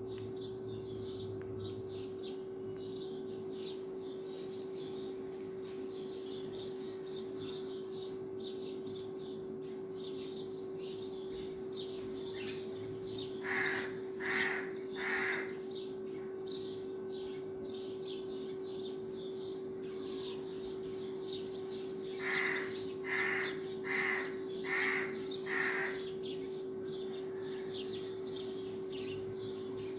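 Outdoor birdsong: small birds chirping throughout over a steady hum, with a larger bird giving three loud calls about 13 seconds in and five more evenly spaced calls about 22 seconds in.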